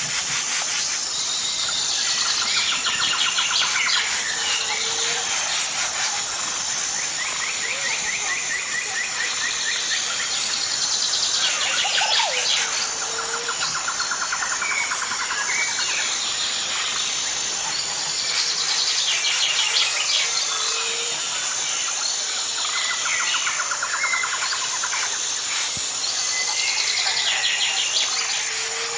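Small birds chirping and trilling, with a steady high-pitched hum like insects behind them. The same run of calls recurs every eight or nine seconds.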